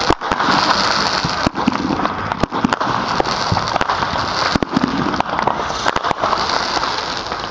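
Consumer fireworks going off with a continuous dense crackle and hiss, broken by sharp pops and a few louder cracks about a second or more apart.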